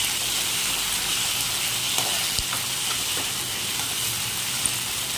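Chopped tomatoes and onions sizzling steadily in hot oil in a pan while a steel spoon stirs them, scraping and tapping the pan a few times.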